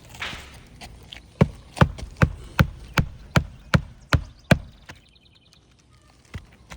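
Hammer driving a roofing nail into an asphalt shingle: about nine quick, evenly spaced blows, beginning about a second and a half in, after a brief scrape at the start.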